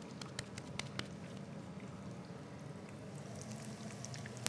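Minced-meat and mint patties frying in oil in a pan: a steady low sizzle with scattered crackles and pops, and a sharp click near the end.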